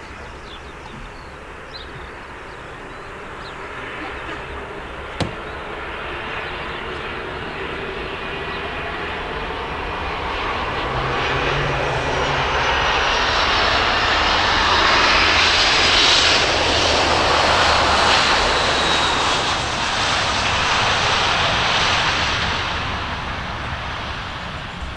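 Airliner's engines passing close by: a roar that builds over several seconds, is loudest in the second half, then fades, with a faint high whine above it. A single sharp click about five seconds in.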